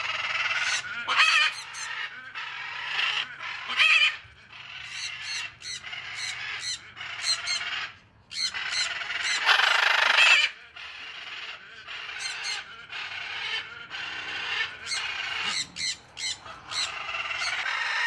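Pet parrots squawking, very loud: harsh calls one after another, some overlapping, with the loudest stretch about ten seconds in.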